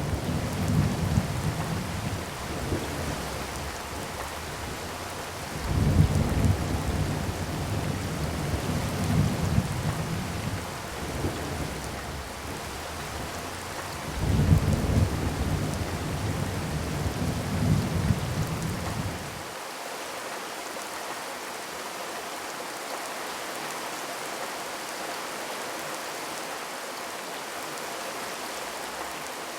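Steady rain hiss under three long, low rolling rumbles, each starting loud and fading over several seconds. About two-thirds of the way through, the rumbling cuts off abruptly, leaving only the even rain hiss.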